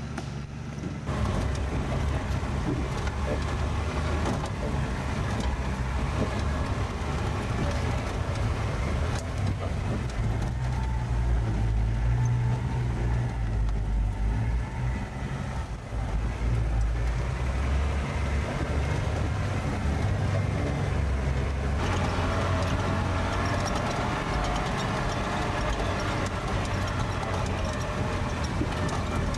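Four-wheel-drive vehicle's engine running under load as it climbs a steep, rough mountain track, a steady low rumble that gets louder about a second in.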